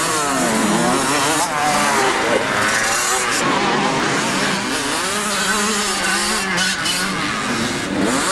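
Several motocross bikes' engines revving, overlapping, each rising and falling in pitch as the throttle opens and closes.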